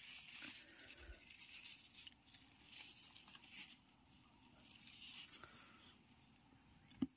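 Faint, intermittent rustling and crunching of dry forest-floor litter as someone moves about and handles the ground, with one sharp tap near the end.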